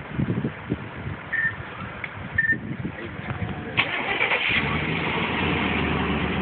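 Cadillac sedan's engine being started: two short beeps sound, the engine catches with a sharp burst about four seconds in, then settles into a steady idle.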